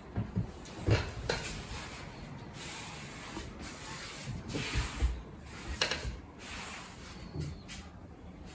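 A kitten scuffling with a fabric cushion: rustling and rubbing, with several soft thumps, the loudest about a second in and again around five to six seconds.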